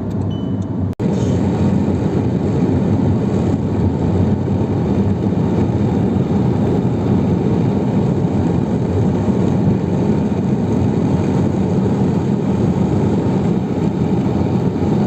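Steady rumble of a vehicle being driven, with a brief cut about a second in.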